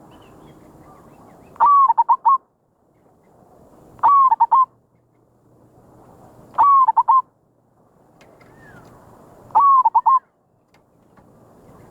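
Zebra dove (merbok) cooing, the short trilled coo phrase repeated four times about every two and a half to three seconds, with a faint hiss between the phrases. It is the merbok song used as a lure call (pikat) to draw in wild zebra doves.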